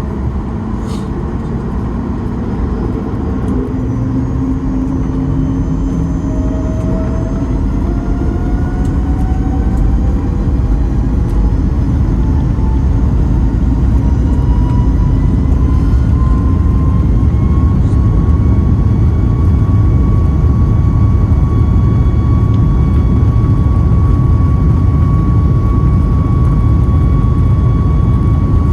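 Boeing 737-9 MAX's CFM LEAP-1B jet engines spooling up, heard from inside the cabin. A whine rises steadily in pitch for about twelve seconds, then holds level, while a deep rumble grows louder underneath, as takeoff thrust is set and the aircraft rolls.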